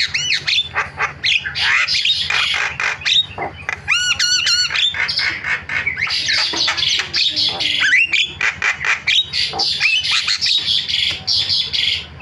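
Javan myna calling continuously in harsh, chattering squawks mixed with whistled notes, with a quick run of repeated rising-and-falling whistles about four seconds in. The calling cuts off suddenly near the end.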